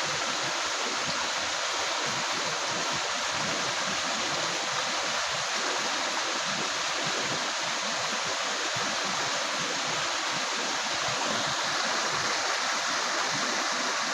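River water running and gurgling over rocks: a steady rushing with small splashes throughout.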